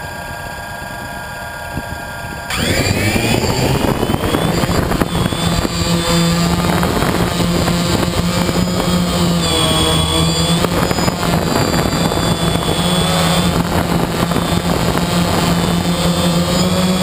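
Quadcopter's electric motors and propellers: a quieter steady whine, then about two and a half seconds in they spin up sharply with a rising whine into a loud, steady buzz whose pitch wavers up and down.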